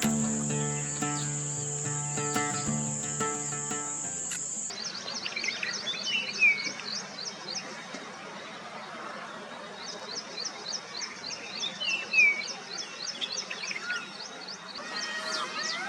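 Acoustic guitar music that stops about five seconds in, giving way to outdoor birdsong and insect sound: a fast high chirping at about four a second, broken by two short falling bird calls that are the loudest sounds, and more overlapping bird calls near the end.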